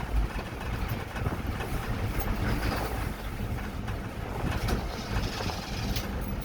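A vehicle moving down the road, giving a steady low rumble with wind noise on the microphone. Its engine keeps dying because the ignition is cutting out.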